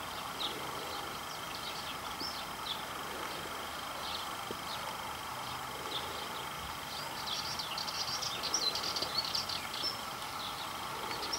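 Small birds chirping in short high notes, sparse at first and busier from about seven seconds in, over a steady outdoor background hiss with a thin high tone.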